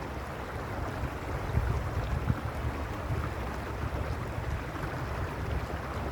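Mountain stream water rushing and splashing steadily over stones, with an uneven low rumble of wind on the microphone.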